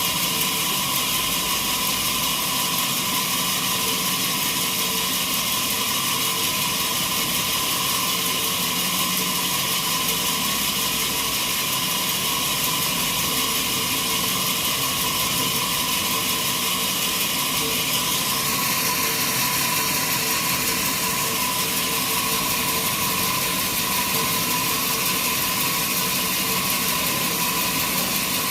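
Sawmill machinery running steadily: a constant mechanical hum with a steady whine over dense hiss, a higher whine joining for a few seconds about two-thirds of the way in.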